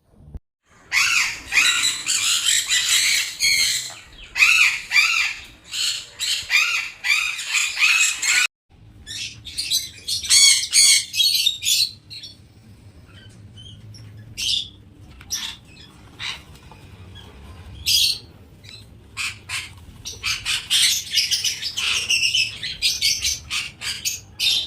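Many small pet parrots calling at once, shrill, overlapping chatter. It breaks off for a moment about eight seconds in, goes on as sparser single calls, and grows dense again near the end.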